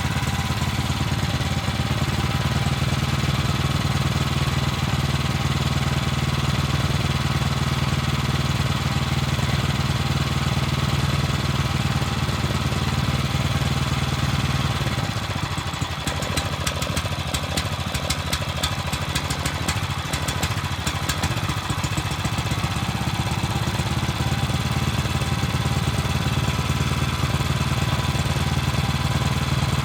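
Bright 17 hp petrol engine running steadily. About halfway through, its low note dips and a light rapid clicking is heard for several seconds.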